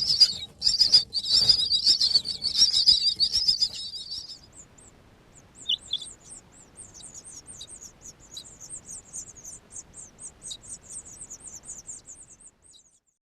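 Birds at a nest chirping: a loud, dense burst of high calls for about four seconds, then after a short pause a fast run of thin, higher chirps, about three or four a second, that fade out near the end.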